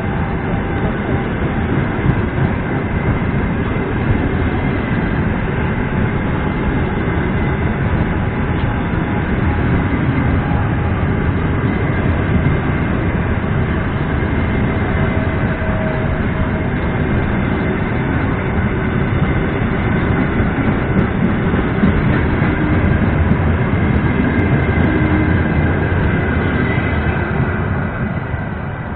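Long-distance passenger train coaches running past a station platform, with the steady noise of the wheels on the rails. The sound eases off near the end as the last coach goes by.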